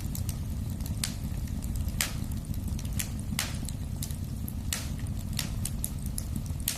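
Wood fire burning in a fireplace: a steady low rumble of flames with sharp pops about once a second and fainter crackles between.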